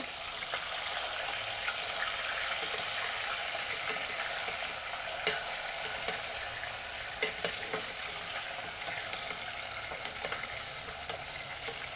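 Marinated chicken pieces sizzling as they fry in hot oil in a pan, a steady hiss broken by a few short sharp pops and clicks.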